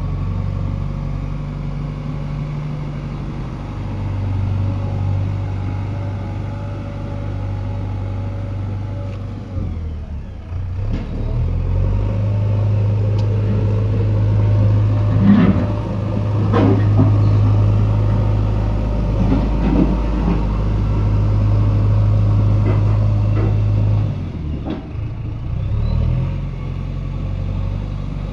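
JCB 3DX backhoe loader's diesel engine running, rising to a louder, steady higher-load run for about twelve seconds midway before settling back. A few sharp clanks sound during the louder stretch.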